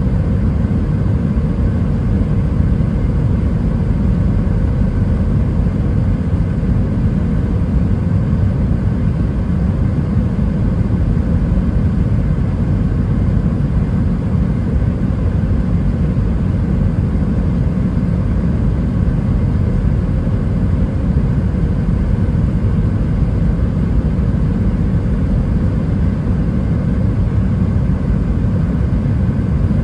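Steady cabin noise aboard an Airbus A320 airliner in flight: a constant low rumble of airflow and engines with a faint steady hum.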